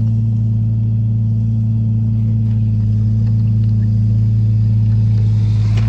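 A steady low engine hum, even in level throughout, like a motor idling.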